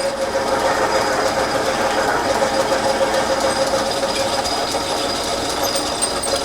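Metal lathe running in back gear, cutting a hole through a roller held in a four-jaw chuck: a steady mechanical whir with a constant hum and a fast, even rattle.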